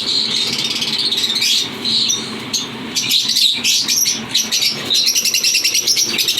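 A flock of lovebirds chirping and chattering, with fast, rapidly repeated notes over the last second or so.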